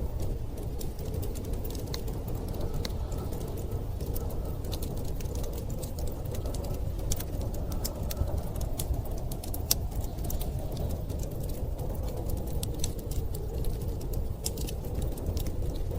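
Wood fire crackling with frequent small irregular pops, over a steady low rumble of storm wind.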